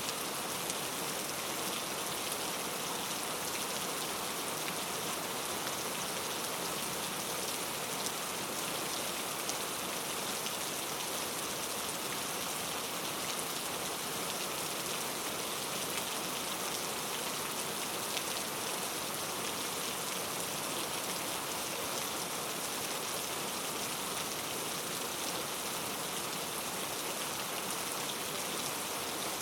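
Steady rain falling in a rainforest, an even hiss of drops on leaves and surfaces with faint patters of individual drops, unchanging throughout.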